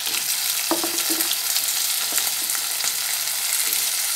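Hot oil sizzling steadily in a wok as diced potatoes, still wet from rinsing, are dropped into frying onions and green chillies, with a few faint clicks.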